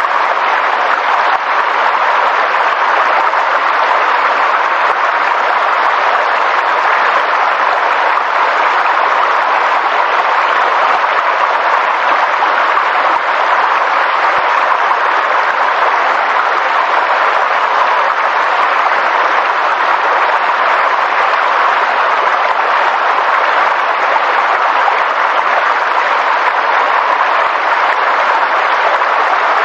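Steady, even rushing of water, loud and unbroken, without any rhythm or single events.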